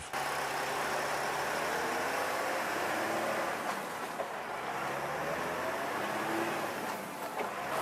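Mercedes-Benz Actros tractor-trailer loaded with logs driving on the road: steady engine and road noise, the engine note drifting slowly up and down.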